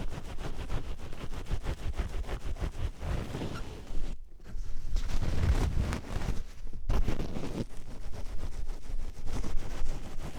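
Oiled hands rubbing and sliding close to a 3Dio binaural microphone, a wet, slick rubbing in quick repeated strokes. The rubbing stops briefly about four seconds in and again near seven seconds, then resumes.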